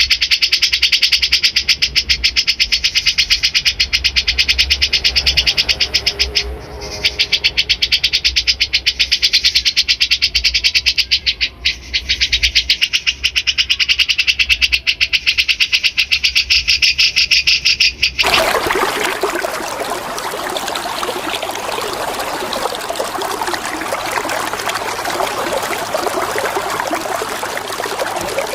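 A songbird's fast, rattling chatter of rapid, evenly repeated high chirps, with two brief breaks, that cuts off suddenly about 18 seconds in and gives way to the steady sound of running water.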